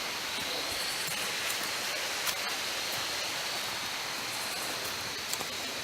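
Water running steadily over a small waterfall on a low creek: an even rushing hiss, with a thin steady high tone above it and a few faint clicks.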